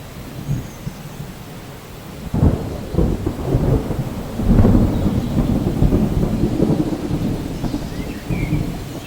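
Thunder over steady rain: a sudden low clap about two and a half seconds in, then a long rolling rumble that swells again a couple of seconds later and slowly fades. A few faint bird chirps come in near the end.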